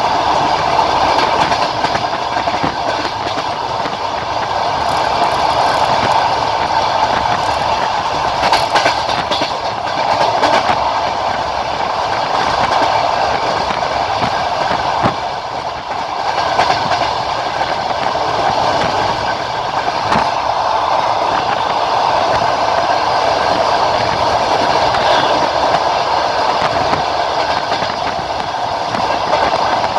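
Passenger train running on the rails, its wheels clacking over the track with a steady running noise.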